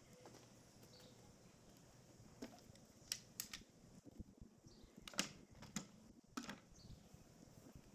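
Half a dozen faint, irregular clicks and light knocks from pieces of wood and tools being handled, over a quiet background.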